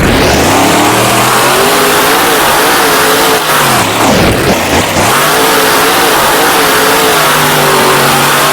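Monster truck's supercharged V8 revving hard, its pitch wavering up and down, dipping sharply twice around the middle and climbing straight back.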